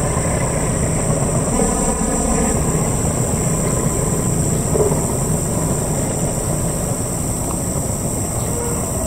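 Passenger train running away down the track in the distance, a steady low rumble.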